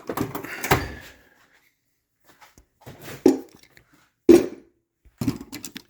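Metal hand tools clattering and knocking as they are rummaged through and picked out by hand, with a few sharp knocks about a second, three seconds and four seconds in.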